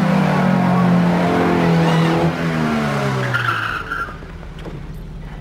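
Car engine revved hard and held at high revs, then falling away about four seconds in, with a short squeal as the revs drop.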